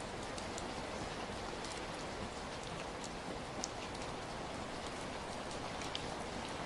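Steady rain falling, an even hiss with a few single drops ticking out sharply above it.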